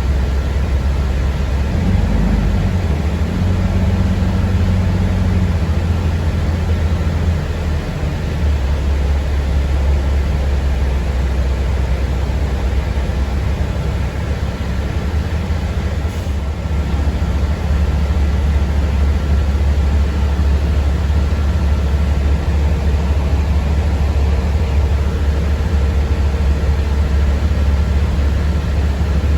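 Steady low rumble of a moving city bus heard from inside the passenger cabin, with a faint steady whine above it.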